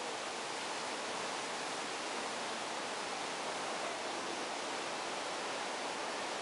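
Steady rushing of a large man-made water cascade: the flood effect pouring through the earthquake set.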